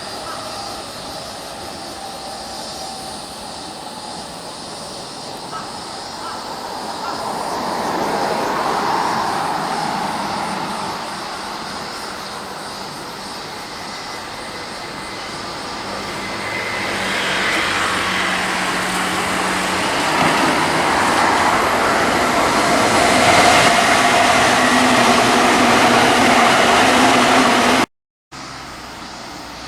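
Electric train running past on the line, its rail and running noise swelling twice and loudest in the second half, then cut off abruptly near the end.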